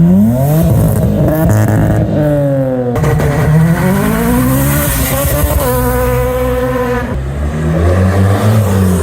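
Car engine revved hard, its pitch climbing and falling several times and held high for a second or so near the middle, with a lower, steadier engine note from another car underneath.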